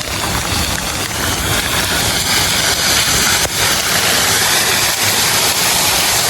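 Floodwater rushing into storm drains under heavy rain, a loud steady rush of water that grows louder and brighter about a second and a half in.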